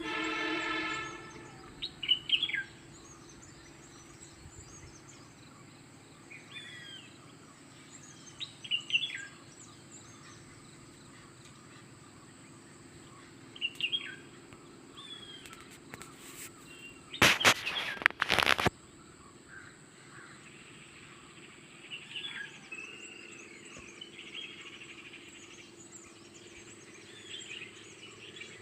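Birds chirping and calling now and then over a steady low hum. A loud burst of noise lasting about a second and a half comes a little past the middle.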